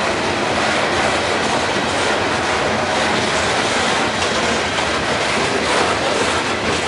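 Freight train of open-top coal hopper cars rolling past close by: a loud, steady noise of steel wheels running on the rails.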